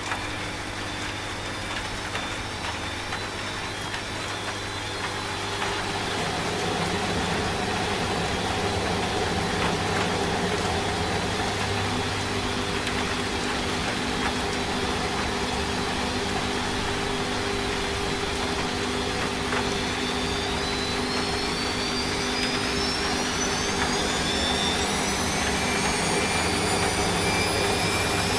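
Washing machine running: a steady motor hum that gets louder about six seconds in, then a rising whine from about twenty seconds in as the drum speeds up into the spin cycle.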